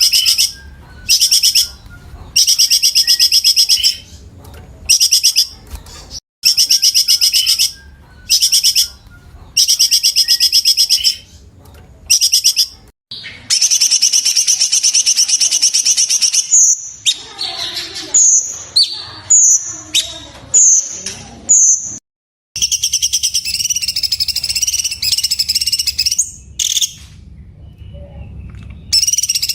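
A cucak cungkok singing loud, rapid trilled phrases of about a second each with short pauses between them. A longer run of about three seconds comes midway, followed by a string of short separate notes, then another long trill.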